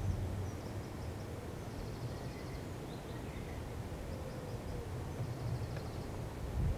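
Faint birdsong: scattered short high chirps and two brief fast trills, over a low outdoor rumble.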